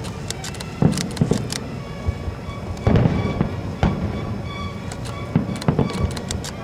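Fireworks going off in a show, a series of sharp bangs and crackles with heavier booms, over music with sustained notes.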